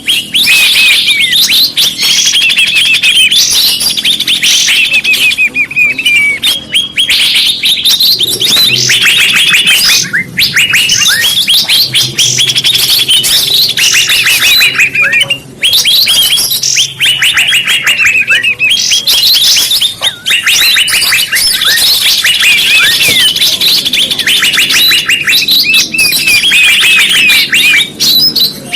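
Recorded bird-lure track (suara pikat) of small songbirds: dense, fast chirping trills in phrases a second or two long, one after another with brief gaps.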